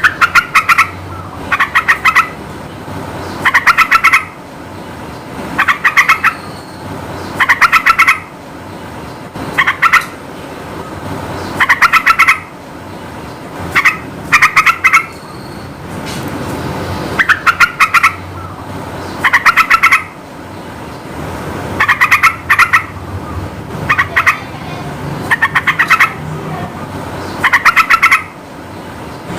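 Yellow-vented bulbul (trucukan) singing loud bursts of rapid bubbling notes, about one burst every two seconds. A steady background rush runs between the bursts.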